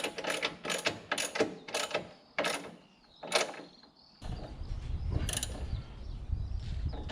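Ratchet wrench clicking in short quick runs as bolts on an exhaust are tightened. About four seconds in, a steady low rumble starts underneath the clicking.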